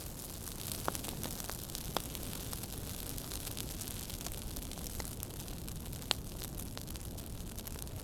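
Wood fire crackling: a steady low rumble and hiss with scattered sharp pops, the loudest about one, two and six seconds in.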